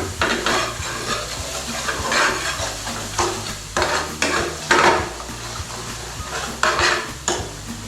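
A utensil stirring and scraping through thick curry sauce in a frying pan, in irregular strokes every half second to a second or so, while the sauce sizzles as it cooks down. A steady low hum runs underneath.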